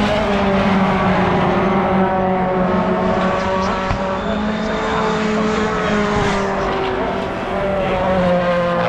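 Several racing cars running on the circuit at high revs, their engine notes overlapping and gliding slowly down and up as they pass.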